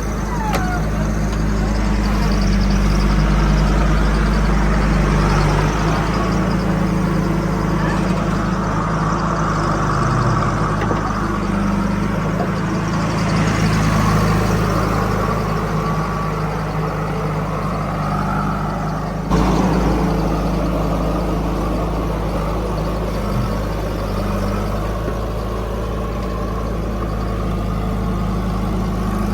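Heavy diesel engine of a backhoe or tractor running steadily with a low hum, with an abrupt change in the sound about two-thirds of the way through.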